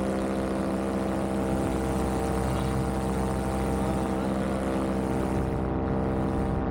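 Vittorazzi Moster 185 paramotor's single-cylinder two-stroke engine and propeller running steadily in flight, holding one even pitch throughout.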